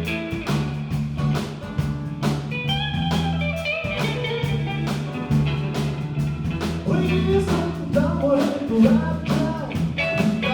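Live blues-rock band playing an instrumental stretch between verses: guitar lines over bass and drums with a steady beat.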